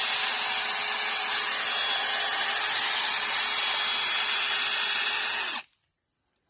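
Electric drill driving a small drill-powered water pump, running at a steady high speed with a constant whine, then stopping suddenly near the end.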